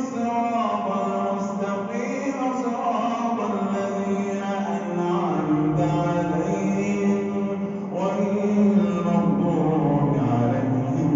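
A man reciting the Quran in melodic tajweed, one continuous voice drawing out long notes that slide up and down in pitch.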